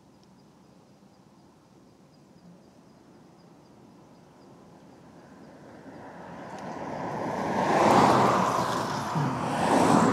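A road vehicle passing close by: its noise swells through the second half, peaks twice near the end, then starts to fade.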